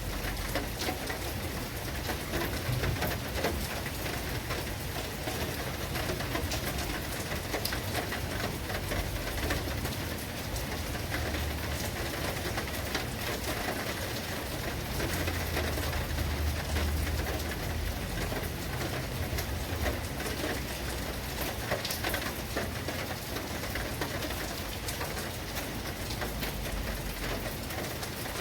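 Steady rain falling, a dense patter of drops on surfaces, with a low rumble swelling about fifteen seconds in.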